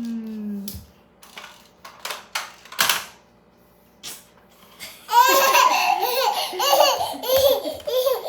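A baby laughing in loud, high, bending squeals from about five seconds in. Before that, a short falling note at the start and a few sharp knocks, as of toys being handled.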